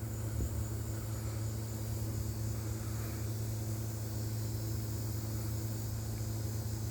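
A steady low mechanical hum that holds one pitch without changing, over a faint hiss.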